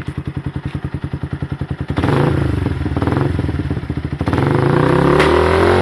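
Yamaha FZ150's single-cylinder four-stroke engine through a Yoshimura aftermarket exhaust, idling with even pulses, then revved about two seconds in, easing off briefly and revved again to a peak near the end.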